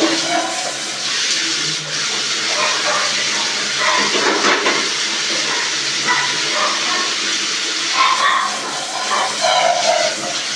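Steady rush of running water, hissing, with a few brief higher-pitched sounds over it near the end.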